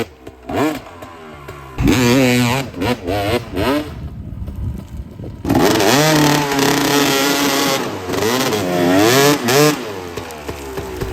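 Dirt bike engine revving hard, its pitch climbing and dropping with the throttle as it pulls. It eases off briefly about four seconds in, then comes back loud for a long pull from about five and a half seconds.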